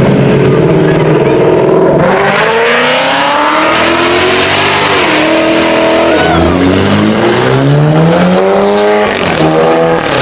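A car engine, idling and then accelerating hard about two seconds in. Its pitch climbs, drops briefly at a gear change, then climbs again before falling back to a low idle near the end.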